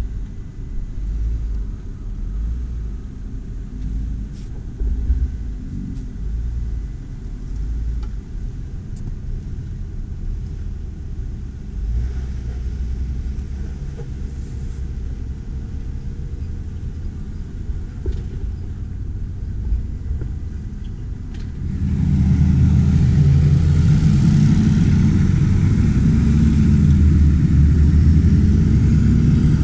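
Jeep Wrangler JL Rubicon engine running with a low rumble as it works along the trail. About 22 seconds in it gets markedly louder, its note rising and falling under throttle.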